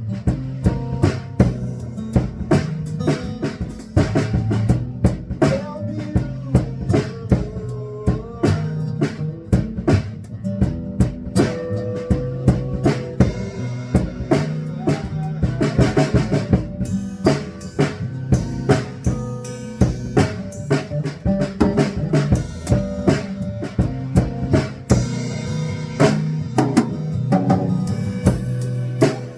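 Live band playing an instrumental jam: drum kit with bass drum and rimshots keeping a steady beat under electric guitar and bass.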